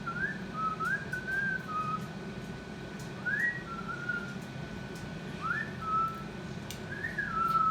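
Pet cockatoo whistling a short phrase that rises then drops to a lower held note, repeated about five times across a few seconds.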